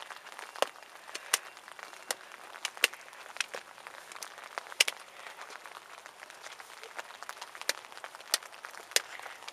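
Raindrops and drips hitting an open umbrella: irregular sharp ticks, about one or two a second, over a faint hiss of rain.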